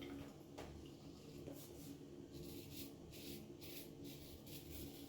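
Faint, short scraping strokes of a 1951 Gillette Black Tip safety razor with a Feather blade cutting stubble through lather, about two strokes a second.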